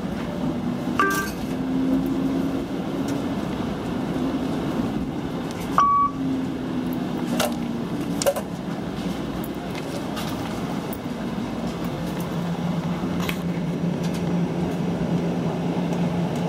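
Inside a TTC streetcar, steady running noise, with short electronic beeps from the onboard fare vending machine and a few sharp clicks. A steady low hum comes up about three-quarters of the way through.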